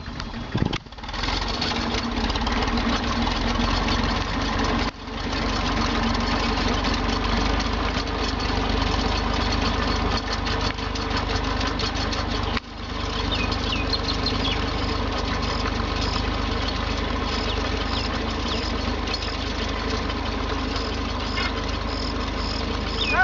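Tractor engine running steadily, driving a tractor-mounted spray pump. The sound cuts out briefly twice, about five and twelve and a half seconds in, and picks straight back up.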